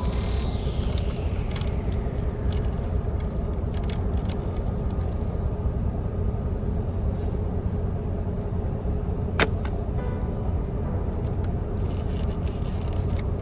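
Heavy truck engine idling with a steady low rumble, with light clicks and rustles of food packaging being handled, and one sharp click about nine seconds in.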